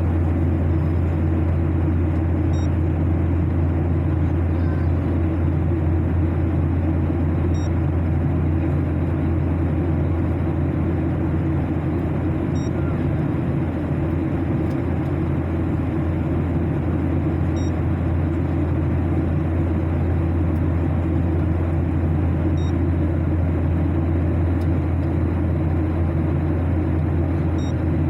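Steady aircraft cabin noise during the climb: a deep, even engine drone under the rush of air, unchanging throughout. A faint, short high beep comes about every five seconds.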